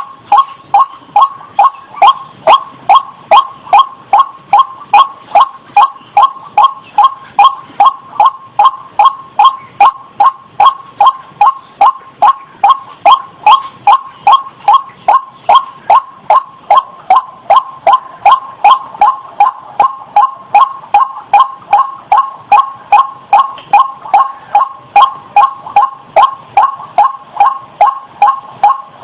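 White-breasted waterhen calling: short notes repeated evenly and without a break, about two to three a second.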